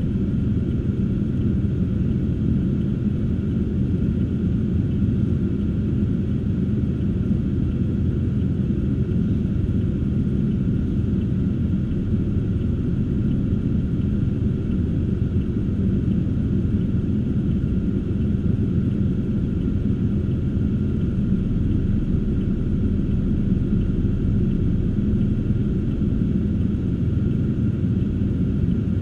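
Steady low rumble of a car driving along: engine and tyre noise with no change in pace.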